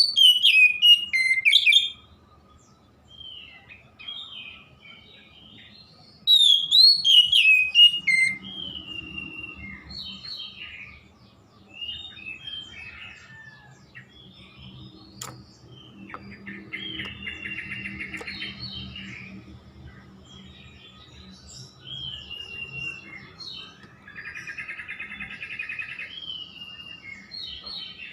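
Oriental magpie-robin (kacer) singing in full song: loud, sweeping whistled phrases at the start and again about six seconds in, then softer varied chirps broken by two buzzy rattling stretches.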